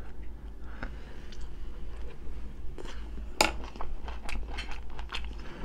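Close-miked chewing of a mouthful of sausage and rice: irregular mouth clicks and smacks, the sharpest about three and a half seconds in.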